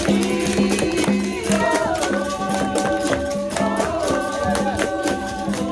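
Capoeira roda music: a berimbau's twanging tone pulsing in rhythm with the rattle of a caxixi and pandeiro strikes, under sung, held vocal lines.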